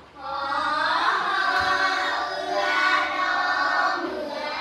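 A group of young children singing together in unison, holding long notes.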